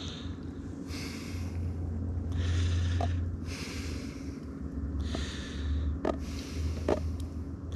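A man breathing close to the microphone, a series of breaths about a second apart, with a few light clicks and a low steady hum underneath.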